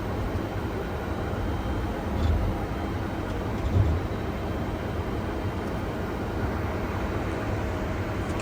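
Steady cockpit noise of a Boeing 747-400 on the ground after landing: a low rumble and hum from the engines and the aircraft's systems. Two brief low thumps come about two and four seconds in.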